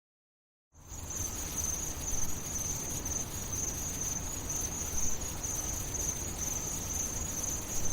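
A steady, high-pitched chorus of chirping insects over low background noise, starting after a brief silence just under a second in.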